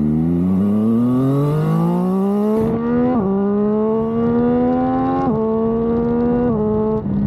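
A Daytona 675R race bike's Triumph 765 three-cylinder engine accelerating hard up through the gears: the engine note climbs, then drops sharply at each of three upshifts.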